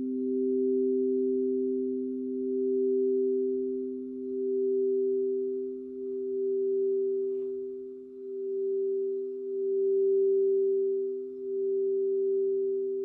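Two crystal singing bowls sounding together, a lower and a higher pure tone held steady, swelling and ebbing in slow waves every second or two. A faint click about halfway through.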